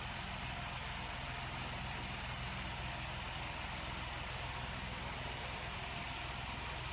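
Steady low hum with an even hiss underneath, unchanging throughout: background noise of the recording.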